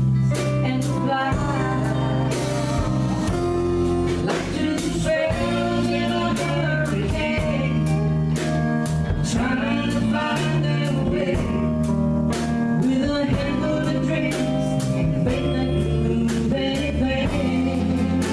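A woman singing a country song with a live band of guitars and drum kit.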